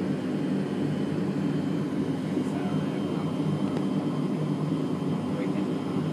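Embraer ERJ-145 regional jet's turbofan engines running steadily: a constant low hum with a faint high whine over it.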